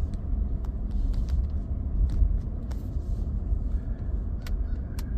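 Vehicle driving slowly on an ice- and sleet-covered gravel road: a steady low rumble of engine and tyres, with scattered sharp clicks.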